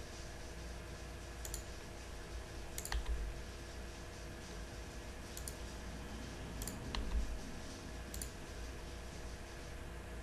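Five scattered single clicks from working a computer's mouse and keys, over a steady low electrical hum.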